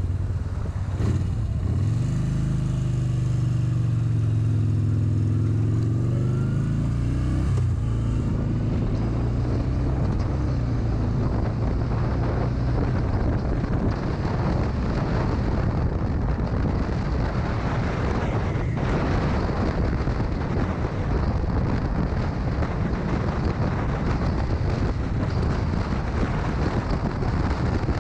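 Motorcycle engine pulling away, its pitch climbing and then dropping at a gear change about eight seconds in. After that a steady rush of wind and road noise at speed covers the engine.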